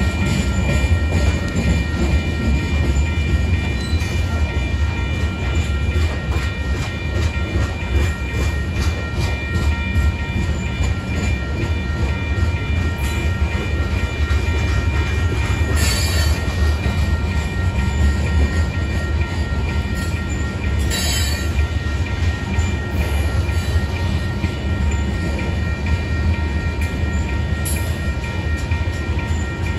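Covered hopper cars of a Union Pacific grain train rolling past: a steady heavy rumble with wheels clicking over the rail, and a few thin steady high tones running over it.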